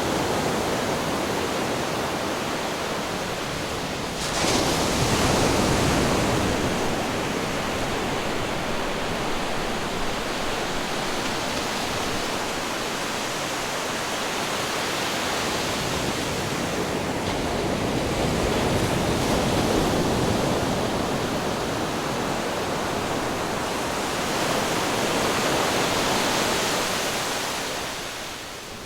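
Ocean waves breaking against rocks: a continuous loud rush of surf that surges sharply about four seconds in, swells twice more later, and eases just before the end.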